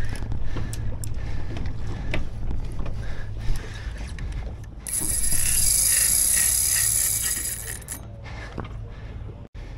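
Fishing reel being cranked hard, its gears clicking, as a small bluefin tuna is reeled up to the boat. A steady low rumble runs underneath, and a loud hiss comes in about five seconds in and stops suddenly about three seconds later.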